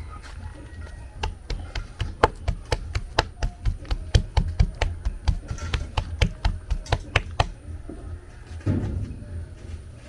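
A quick run of sharp knocks, about three or four a second for some six seconds, from food preparation in a kitchen. A short rustle follows near the end.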